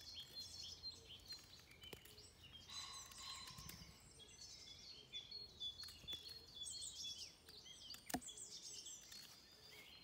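Wild birds chirping and trilling over and over, several at once, with a single sharp click about eight seconds in.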